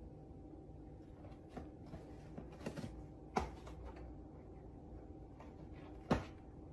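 Quiet room tone with a faint steady hum and a few soft knocks or taps, the loudest about three and a half seconds in and another near the end.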